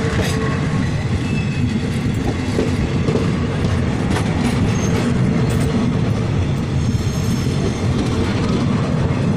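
Passenger coaches rolling past at close range: a steady rumble of bogies and wheels on the rails, with clicks from wheels crossing rail joints and a few faint brief wheel squeals.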